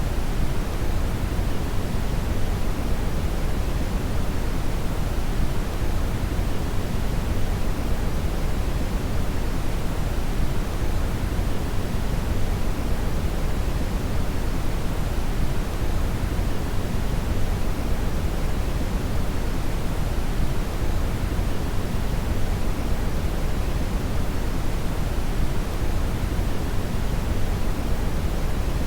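Brown (red) noise: a steady, deep rushing hiss, strongest in the low end and falling off toward the highs, unchanging throughout.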